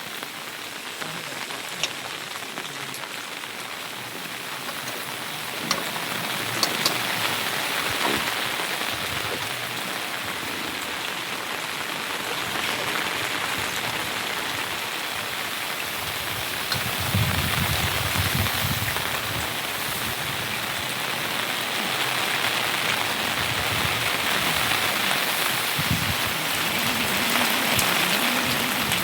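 Steady rain falling, with a few sharp drip clicks in the first several seconds.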